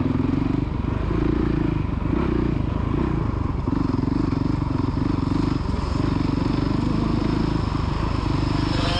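Small motocross dirt bike engine running and revving. Its buzz eases off briefly several times and picks up again as the throttle is closed and reopened.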